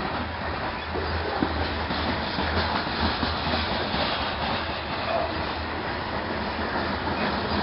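Freight train cars rolling past on the rails: a steady rumble and rattle of wheels and cars.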